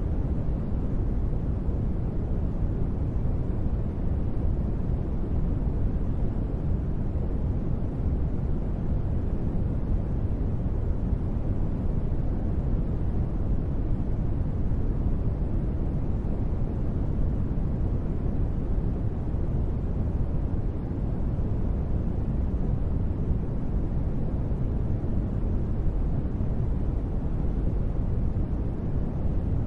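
Steady ambient noise bed, a constant deep rumble that is heaviest in the bass and fades off in the treble, without change or events.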